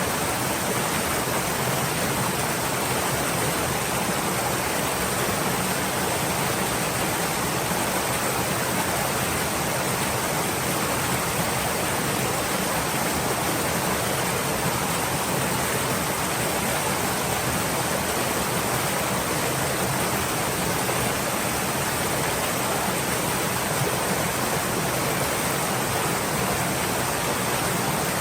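Stream water flowing steadily, a constant even rush with no breaks or distinct splashes.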